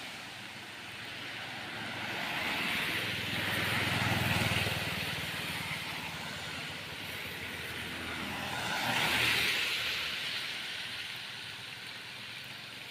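Road traffic: motor vehicles passing, with one going by about four seconds in and another about nine seconds in.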